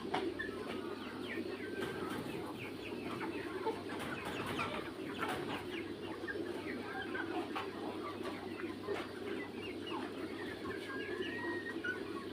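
A flock of young Mía chickens clucking and peeping, with many short calls overlapping over a steady low hum.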